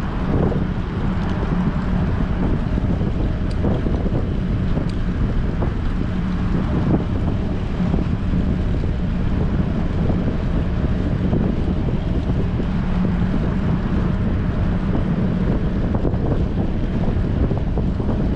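Strong wind buffeting the microphone of a bicycle-mounted action camera while riding: a steady, loud, low rushing rumble.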